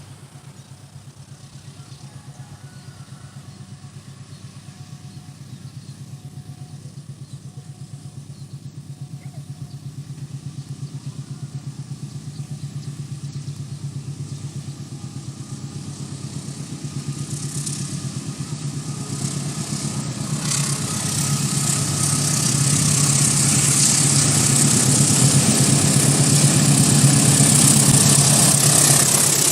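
Train engine approaching: a steady, pulsing low engine hum that grows louder throughout, with a hiss building over the last third as it comes close.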